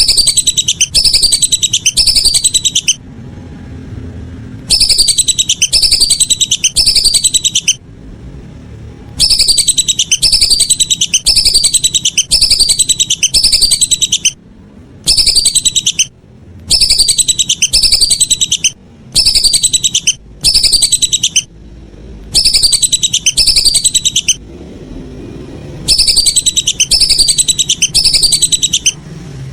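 Whistling duck (belibis) calls played as a bird-call lure recording: loud runs of quick, high, falling whistles, about three a second, coming in bursts of one to five seconds with short pauses between.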